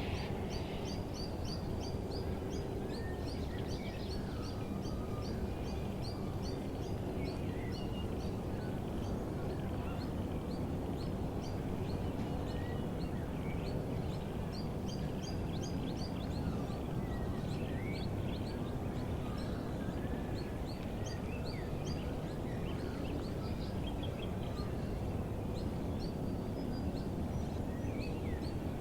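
Dawn chorus of many small birds chirping and whistling, with short rapid trills and quick rising and falling calls overlapping throughout, over a steady low background rumble.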